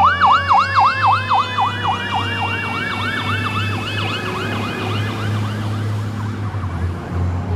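Fire truck's electronic siren on a fast yelp, about four to five cycles a second, fading out over the first six seconds as the truck moves away, with a low diesel engine rumble underneath.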